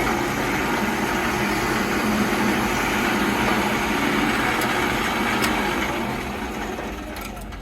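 Drill press motor running as its 1/4-inch bit bores about half an inch into a wooden half circle, the sound dying away over the last second or so.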